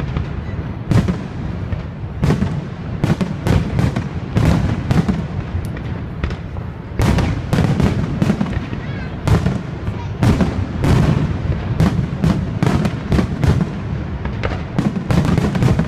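Aerial firework shells bursting in a rapid barrage, several sharp bangs a second over a continuous low rumble, thickest in clusters near the middle and near the end.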